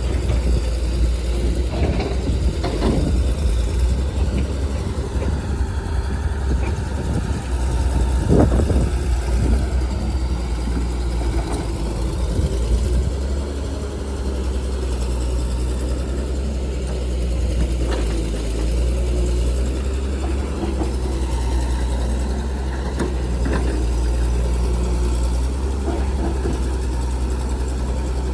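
Diesel engine of heavy earthmoving machinery running steadily with a deep, even hum, with a few short knocks.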